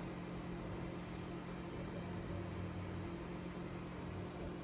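A steady low mechanical hum with hiss, holding a few constant low tones throughout.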